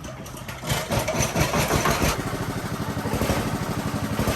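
Husqvarna 365 chainsaw's two-stroke engine starting up about a second in, running unevenly at first, then settling into a steady idle.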